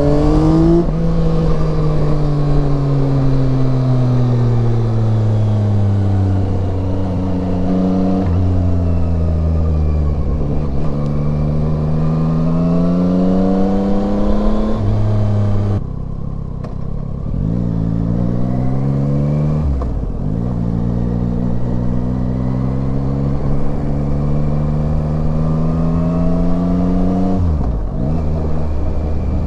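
Yamaha Tracer 9's 890 cc inline-three engine under way. Its revs climb and fall in long sweeps, with sudden steps in pitch as gears change, over a steady hiss.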